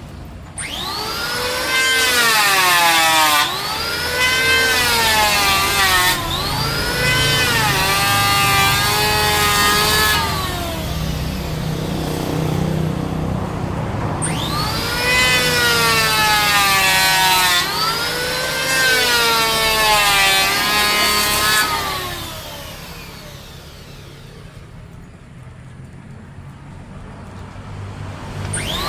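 Electric woodworking power tool cutting mahogany in a series of passes. In each pass the motor's whine rises and then sags in pitch as the blade takes up the load. About 22 s in it drops away to a low background, then starts up again near the end.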